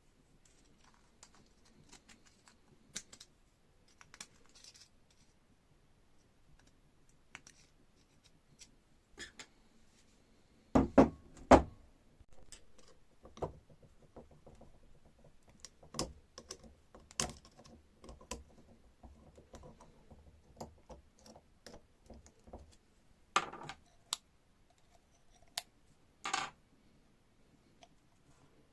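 Metal parts and tools being handled on a workbench: scattered light clicks and clinks, two louder knocks about eleven seconds in, and two brief scrapes near the end.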